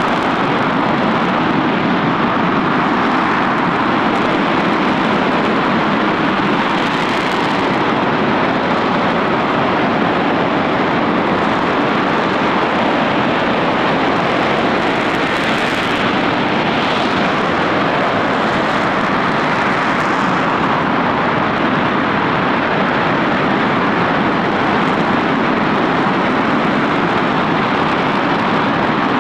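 RS-25 liquid-fuelled rocket engine firing on a test stand: a steady, loud rushing noise that holds at one level without a break.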